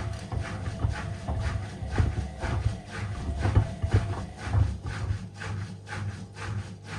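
Sneaker cleaning sounds: a run of irregular knocks and rubs, about three to four a second, over a low rumble that eases about five seconds in.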